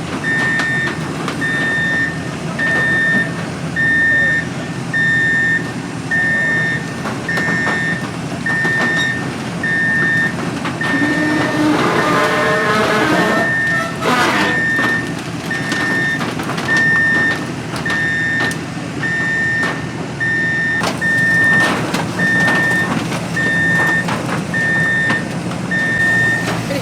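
Forklift reversing alarm beeping at a steady, even rate over the forklifts' running engines while they move a heavy machine on gravel. A rising whine comes in near the middle.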